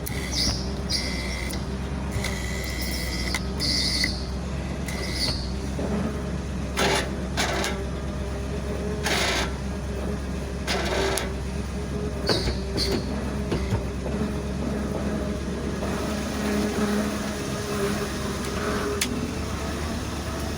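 1988 Dodge D350 tow truck's engine idling steadily after a cold start, while the tow rig's freshly redone hydraulics are worked: short high whines come and go in the first few seconds and again about halfway through, with several short noisy bursts in between.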